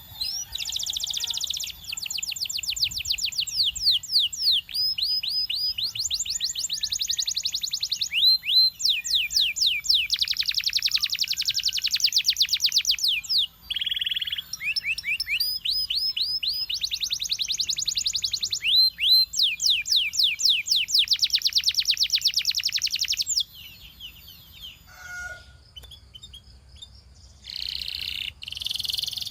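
A Belgian singing canary singing: long, fast trills of repeated sweeping notes strung one after another. The song breaks off about three-quarters of the way through and a short burst comes back near the end.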